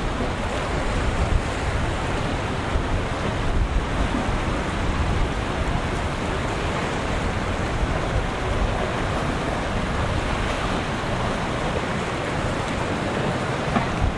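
Rough surf and choppy water at an ocean inlet, a steady rushing wash, with wind buffeting the microphone.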